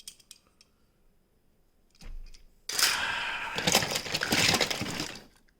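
Small toy cars clattering and rattling against each other as a box of them is rummaged through: a few light clicks, then about three seconds of dense, loud clatter.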